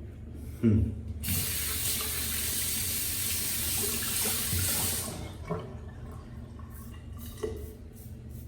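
A sharp knock, then a sink faucet running for about four seconds before it is shut off suddenly, followed by a few light clicks.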